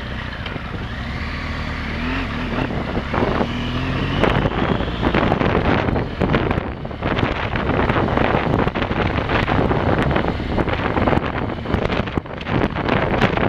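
Motorcycle engine running while being ridden, its pitch rising briefly about two seconds in. From about four seconds in, dense irregular rattling and buffeting takes over, with wind noise on the microphone.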